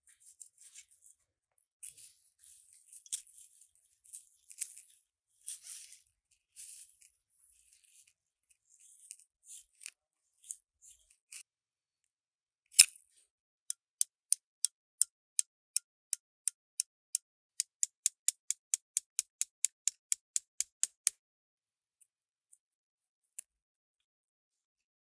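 Light scratching and tapping of small parts being handled, then one sharp click followed by a regular run of short clicks that speeds up from about two to about four a second and stops abruptly.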